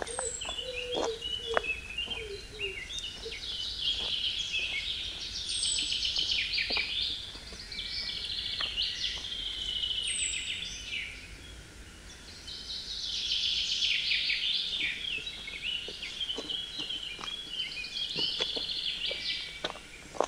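Several wild birds singing at once, in dense chattering and trilling song. A high, thin down-slurred whistle comes three times, about four to five seconds apart.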